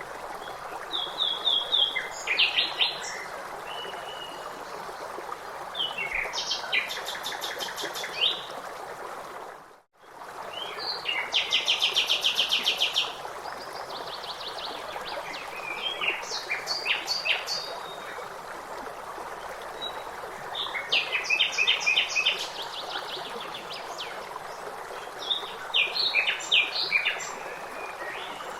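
Songbirds singing in short chirping phrases every few seconds, one phrase a fast even trill, over the steady rush of running stream water. The whole sound fades out and back in briefly about a third of the way through.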